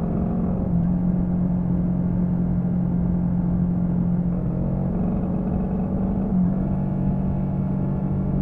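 Honda CB125T's twin-cylinder engine running under way at a steady engine note, its pitch stepping slightly a few times. The rider judges it to be running badly, with the carburettor setting not right after the silencer was refitted.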